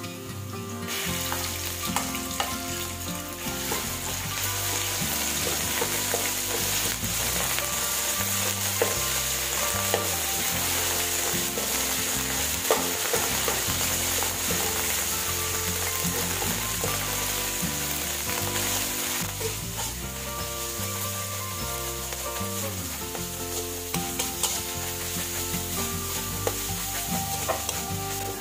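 Chopped garlic, then a red paste, sizzling in hot oil in a metal wok while a metal ladle stirs and scrapes it, clinking against the pan. The sizzle grows louder about a second in.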